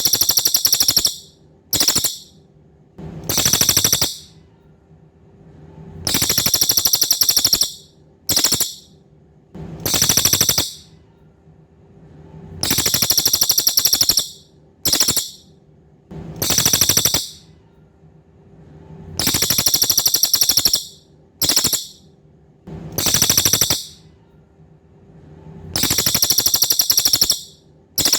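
Cililin songbird singing in rapid, high-pitched rattling trills, repeated in bursts every one to three seconds in a recurring long, short and medium pattern. A faint steady hum lies underneath.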